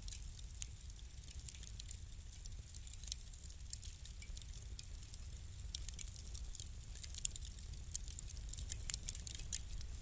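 Wood fire crackling: many small, irregular pops and snaps over a low steady rumble, with a few louder pops in the second half.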